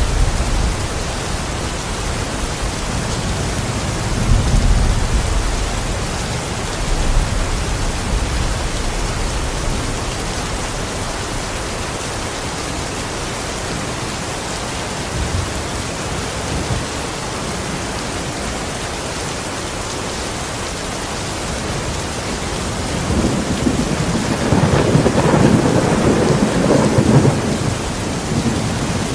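Steady rain falling, with thunder: a low rumble about four seconds in, and a longer, louder roll of thunder late on that swells and fades.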